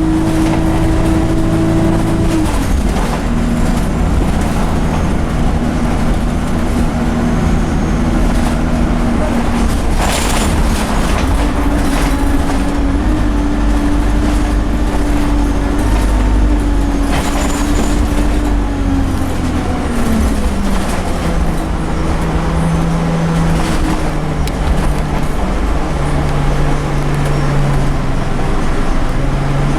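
Scania single-deck bus engine running under way over road noise. Its note drops a couple of seconds in, climbs again about eleven seconds in and falls away after about twenty seconds, following gear changes and speed. There are brief rattles around ten and seventeen seconds in.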